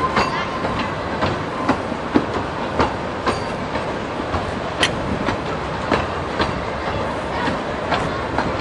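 Amusement park train running, heard from on board: a steady rumble with sharp clicks and knocks from the wheels on the rail joints, coming unevenly about once or twice a second.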